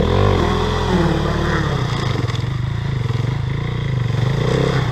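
KTM 300 two-stroke single-cylinder dirt bike engine running on a trail ride, its revs rising and falling as the throttle is worked, with some clattering from the bike.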